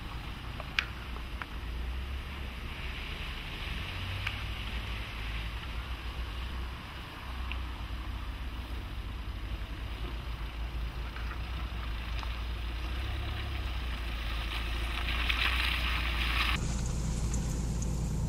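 Nissan X-Trail 1.6 dCi four-cylinder turbodiesel running at low speed over a grassy track, a steady low rumble with a few faint clicks. Near the end the sound cuts abruptly to a louder, deeper steady hum heard from inside the cabin.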